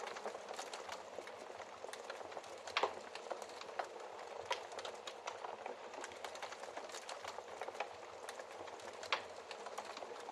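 Wood fire crackling in a fireplace: a steady hiss with many small snaps and a few louder pops, the loudest about three seconds in and another near the end.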